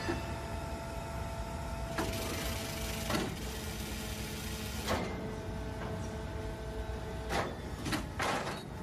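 Factory machinery running with a steady hum and whine, a hiss lasting about three seconds, and a string of sharp metallic clanks and knocks, three of them close together near the end.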